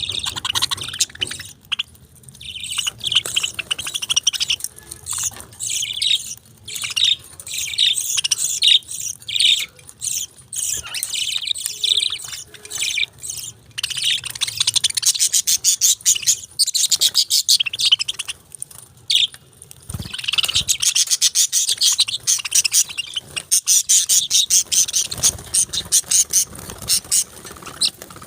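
A flock of pet budgerigars chattering and warbling: a continuous, busy stream of rapid high chirps and tweets, with a couple of brief lulls.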